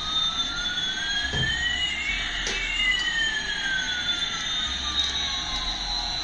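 Electronic sound effect of two whining tones sweeping slowly in opposite directions, one rising and one falling, crossing about halfway through, like a jet spooling.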